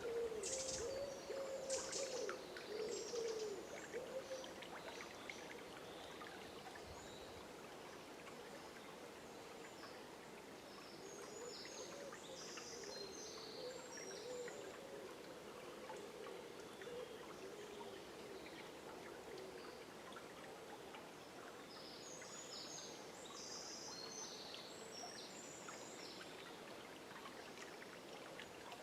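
River water flowing steadily in a forest at dawn, with bird calls in short clusters of high chirps near the start, in the middle and toward the end.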